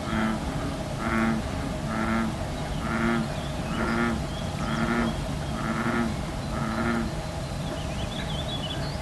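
An animal calling over and over, eight short low-pitched bleating calls about a second apart, with faint high bird chirps near the end.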